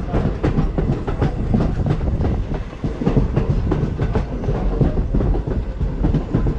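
Railroad passenger coach rolling along the track, its wheels clattering and rattling over the rails, with wind rushing over the microphone held out the open window.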